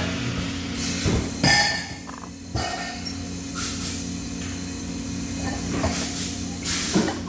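Metal parts clinking and knocking several times over a steady machine hum, with a few short hisses in between.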